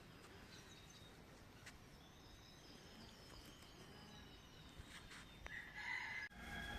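Faint birds chirping in quiet open air, with a louder call near the end that is cut off abruptly.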